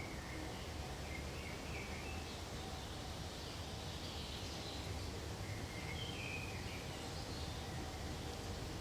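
Pine forest ambience: a steady soft rustle of wind through pine needles, with faint, scattered short bird chirps.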